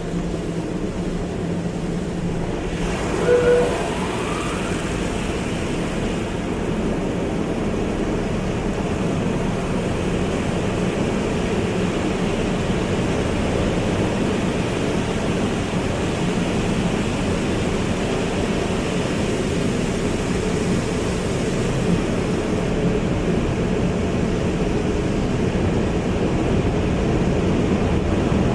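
Car wash running: a steady rush of water spray and machinery over a low, even hum, with a brief squeal about three seconds in.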